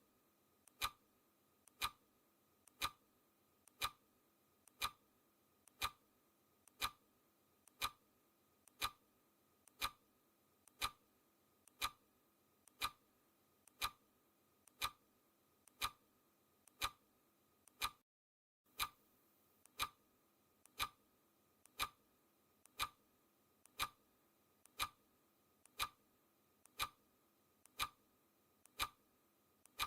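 Clock ticking, one sharp tick a second, each tick with a fainter click just before it. The sound drops out completely for a moment about eighteen seconds in.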